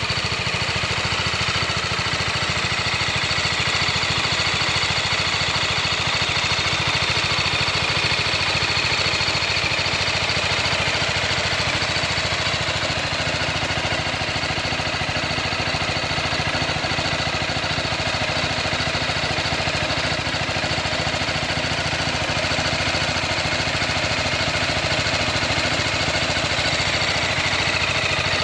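BMW G310R's single-cylinder engine idling steadily, with a fast even beat and no revving.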